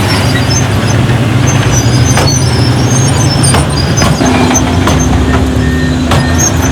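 Heavy diesel earthmoving machinery running loudly, with high metallic squeals and scattered clanks. A steady higher hum joins the engine note about four seconds in.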